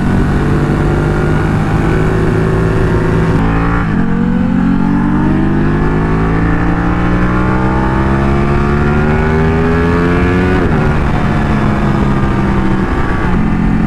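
Twin-cylinder sport motorcycle engine riding under power: the pitch drops at a gearshift about four seconds in, then climbs steadily for about six seconds as the bike accelerates, and drops again near the end to a steadier note.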